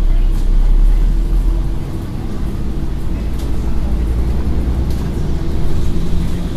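Scania N113 bus's diesel engine running under way, a steady low drone whose pitch and loudness drop about two seconds in.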